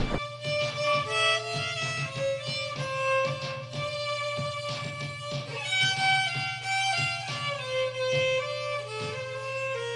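Background music: a violin playing a slow melody of held notes over a steady low drone, with light plucked notes underneath.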